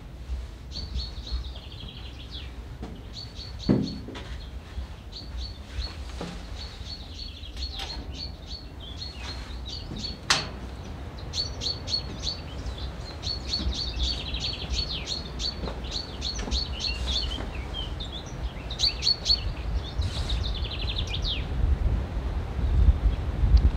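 Songbirds singing, many repeated short chirping phrases, some ending in falling trills, over a low rumble of wind on the microphone that grows louder near the end. A single knock comes about four seconds in and a sharp click about ten seconds in.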